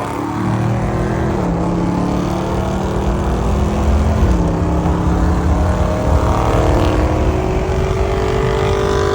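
Car engine pulling away: its note steps down twice, about one and a half and four seconds in, as it shifts up a gear, then climbs slowly as the car accelerates.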